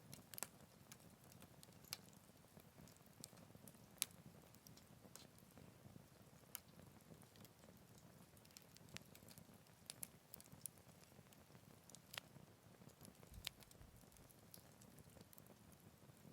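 Faint wood campfire crackling: irregular sharp pops and snaps over a soft low rush, the loudest pop about four seconds in.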